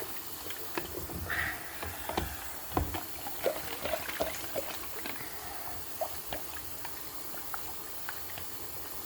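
Kitchenware being handled: light, irregular clicks and knocks over a steady hiss, with one louder knock a little under three seconds in.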